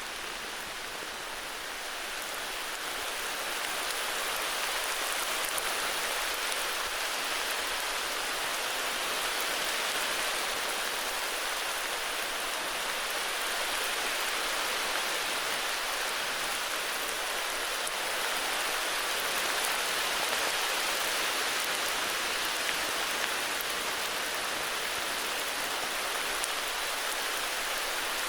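Steady heavy rain falling, an even hiss with the patter of raindrops. It swells a little over the first few seconds, then holds.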